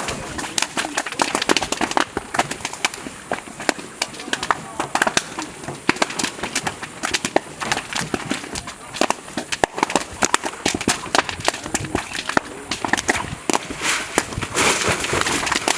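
A large fire of burning drugs, crackling with many rapid, irregular sharp pops, with people's voices in the background.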